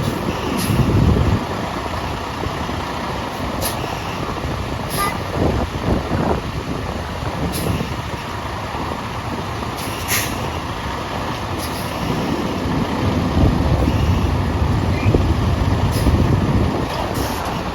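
Semi truck's diesel engine running as it is maneuvered into a loading dock. The low rumble swells louder a few times, longest in the second half, and brief high hisses come several times.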